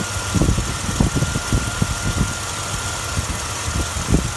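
Jeep 4.0 L straight-six engine idling steadily, with a faint steady high whine above the rumble. It is running with good oil pressure on a fresh oil change and new filter.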